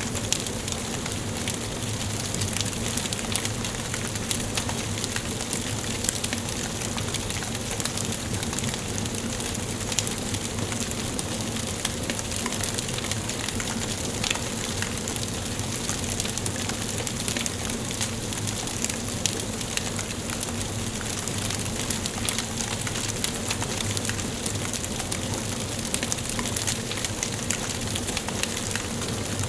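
Wood fire burning in a fireplace: a steady hiss with many small, irregular crackles and pops.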